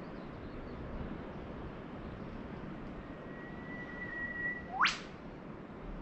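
A bird calls once over a steady hiss of distant surf: one long, steady whistle starting about halfway through, ending near the end in a quick, sharp upward sweep.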